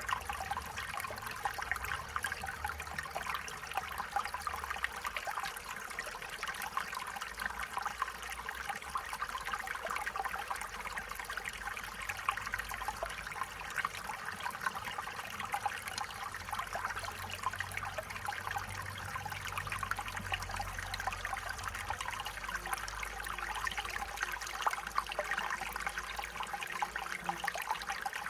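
A stream of running water, babbling and trickling steadily with many small splashes.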